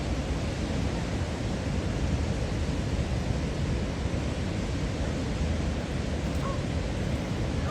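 Steady rushing wind noise over the microphone, heaviest in the low end. Two faint short bird calls come near the end.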